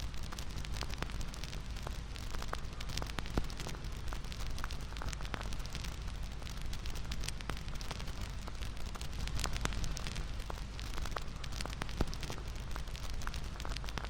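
Bonfire crackling steadily: a low rumble of burning with many irregular sharp pops and snaps of burning wood.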